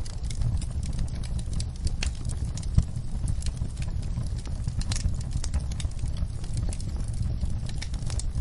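Wood fire burning in a fireplace: a steady low rumble with scattered crackles and pops, and one louder pop about three seconds in.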